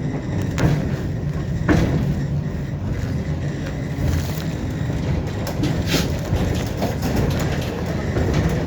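Tram running along the track, heard from inside the car: a steady low rumble of wheels on rail, with a few sharp knocks.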